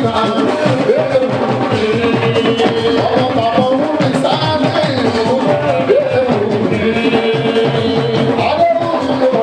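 Live fuji band music: a singer's melodic line with long held notes over a busy, steady drum and percussion groove.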